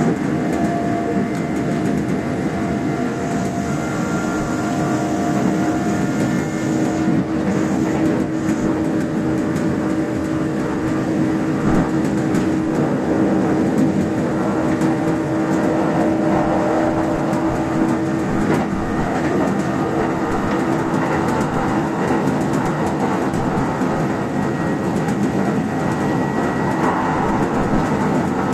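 Kintetsu standard-gauge express electric train running at speed: steady rumble of wheels on rail with a held motor whine and occasional faint rail clicks.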